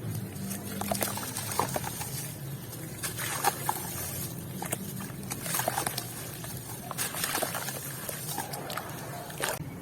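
Wet white cement being crushed and crumbled, making irregular crunchy crackles and clicks with a watery, sloshy edge.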